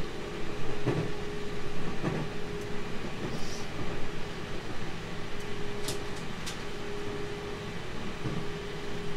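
JR Central 313 series electric train running, heard from inside the car: a steady rumble with a constant tone, wheels clicking over rail joints about once a second in the first couple of seconds, and two brief high squeaks a little past the middle.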